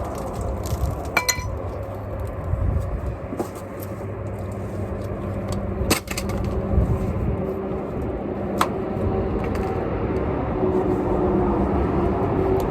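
Steel exhaust pipe being cut: a steady mechanical running noise with a few sharp metallic clicks.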